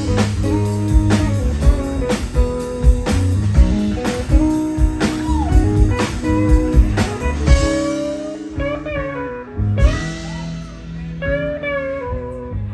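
Live band playing blues-rock, guitar over bass and a steady drum beat; a little past halfway the drums drop away, leaving mainly guitar lines ringing out.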